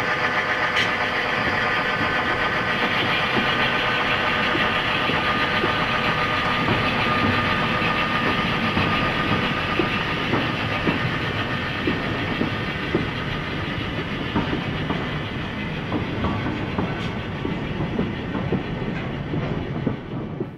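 Diesel freight train passing: a steady engine drone at first, then the cars' wheels clicking rhythmically over rail joints as the sound slowly fades.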